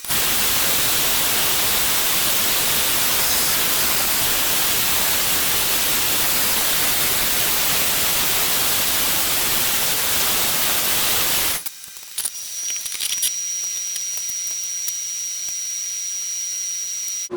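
Grinder grinding the freshly hardened and tempered steel knife blade during clean-up, a loud steady hiss. About two-thirds of the way through it drops abruptly to a quieter running sound with a steady high whine and a few clicks.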